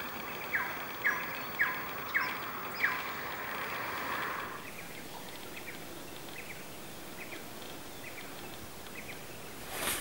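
A bird calls a run of short, sharp descending notes, about two a second, over the first three seconds, then repeats fainter notes at a slower pace, over a steady outdoor background hiss. A brief click comes near the end.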